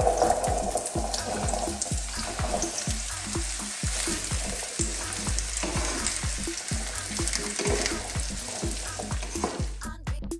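Diced zucchini sizzling as it is tipped into hot olive oil in a frying pan and stirred with a wooden spatula. Background music with a steady beat of about two thumps a second runs underneath, and the sizzle cuts off near the end, leaving only the music.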